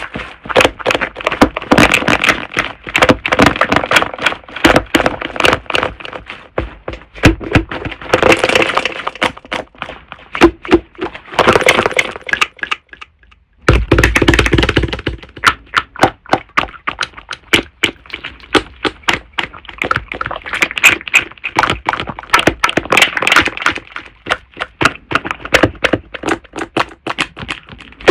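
Slime being squeezed and pressed by hand, giving rapid crackling clicks and pops of trapped air, with a short pause about halfway through.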